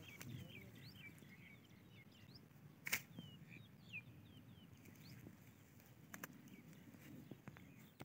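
Faint, short high bird chirps, many in quick succession, over a low rumble on the microphone, with one sharp click about three seconds in.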